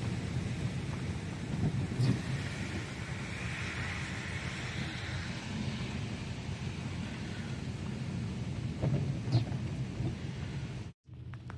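Severe storm heard from inside a car: gusty wind and rain beating on the vehicle over a steady low rumble, with a couple of sharp knocks. The sound cuts out for a moment near the end.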